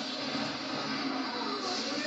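Television playing a film soundtrack: a steady mix of music and effects with faint voices underneath.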